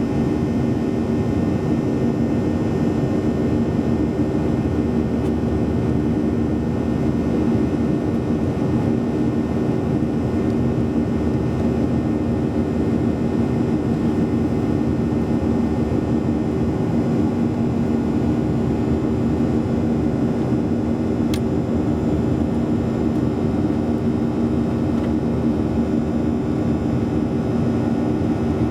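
Steady cabin drone of a Boeing 737-800 in flight: the hum of its CFM56 jet engines and the rush of air, unchanging throughout.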